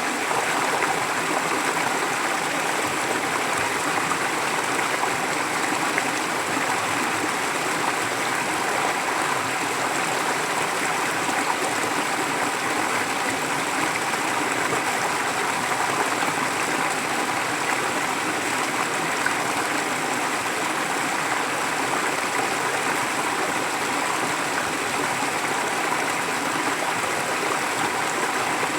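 Forest stream flowing steadily, an even rush of water without pauses or distinct splashes.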